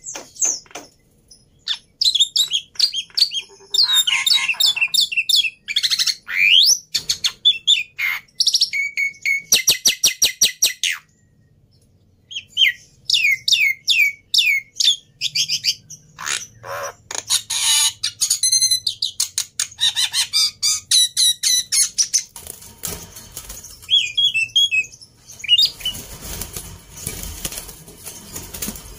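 Black-winged myna (jalak putih) singing a loud, varied song of whistles, fast rattling clicks and harsh squawks, with a short pause near the middle and a harsher, noisier stretch near the end.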